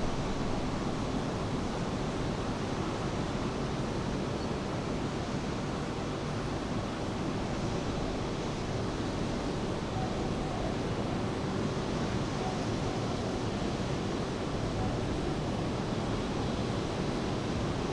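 Steady rain mixed with the wash of ocean surf, an even, unbroken noise with no sudden events.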